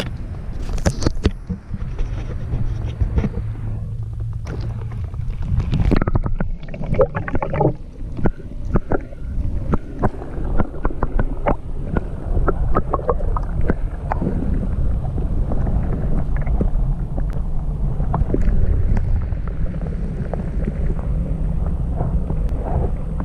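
Water sloshing and knocking around a GoPro camera's waterproof housing held under the water, heard as a steady low rumble with scattered clicks and knocks.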